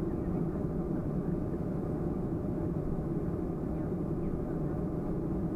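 Steady engine drone heard inside the cabin of a Boeing 737-300, its CFM56-3 engines running at low power while the aircraft is on the ground before take-off.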